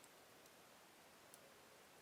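Slow-burning wood fire in a fireplace: a faint steady hiss with a few small crackling pops, the clearest just past a second in.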